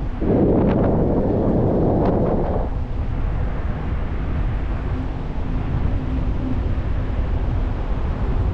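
Steady wind noise buffeting the microphone with low rumble as the bike rides along, and a louder rushing noise for the first two and a half seconds or so.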